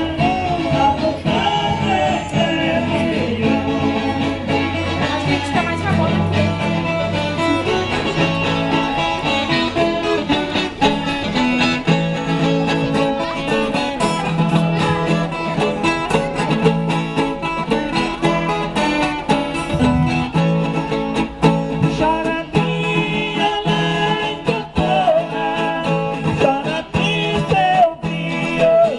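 Caipira folk music with no singing: an instrumental passage on plucked acoustic guitar and viola caipira, played in a steady rhythm.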